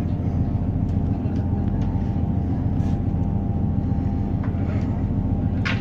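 A train standing at a platform, heard from inside the carriage: a steady, even low hum from its engine or on-board machinery. A single sharp click comes near the end.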